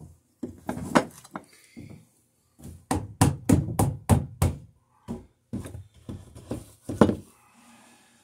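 A series of irregular knocks and clunks on wood, with a quick run of about six knocks around the middle: a clamp being shifted and set against a wooden boat rail.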